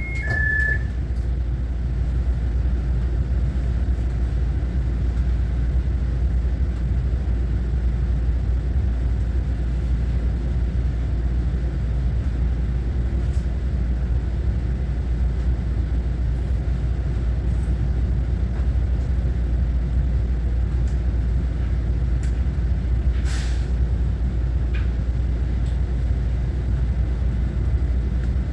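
Steady low rumble of an electric multiple-unit commuter train running, heard from inside the passenger car. A high two-tone electronic chime finishes in the first second, and a single sharp click comes near the end.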